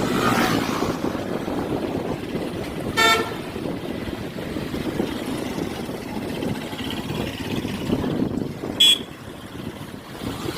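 Road traffic rumble heard from a moving motorbike, with a short vehicle horn toot about three seconds in and another brief, higher-pitched horn beep near the end.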